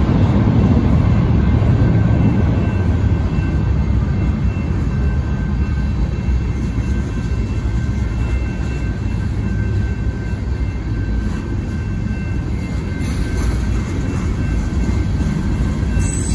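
Freight cars of a manifest train rolling past a grade crossing, a steady low rumble of wheels on rail. The crossing's electronic bells ring faintly above it.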